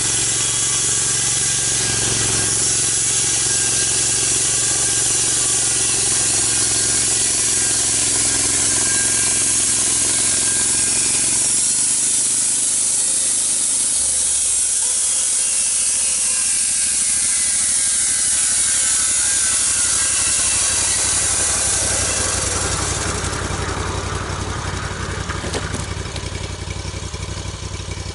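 Engine-driven log-milling saw running under load as it cuts lengthwise through a big log. About 22 seconds in, the cutting hiss stops and the engine eases back toward idle as the cut ends.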